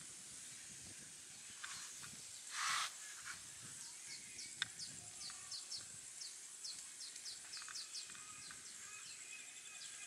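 Outdoor bird ambience: small birds give a run of quick, high, downward chirps through the second half, over a steady high hiss. A short, harsh burst of noise stands out a bit under three seconds in, and a single sharp click follows near the middle.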